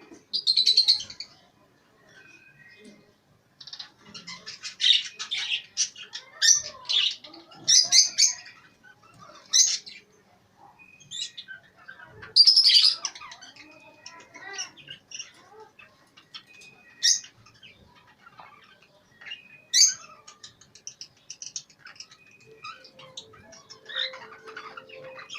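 A chorus of caged pet birds, among them budgerigars, cockatiels and lovebirds, chirping and calling without a break, with loud squawks every few seconds.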